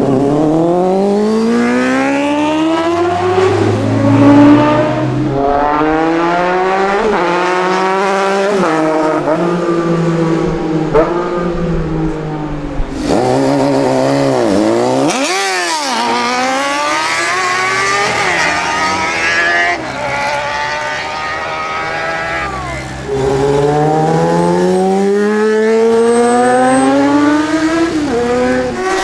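Sport motorcycle engine accelerating hard through the gears: its pitch climbs and drops back at each of several gear changes, with a brief dip and rise about halfway through.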